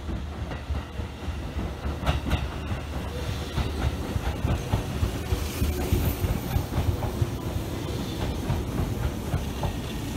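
A Seibu N2000-series electric commuter train running in alongside the platform. Its wheels clack over the rail joints under a steady low rumble.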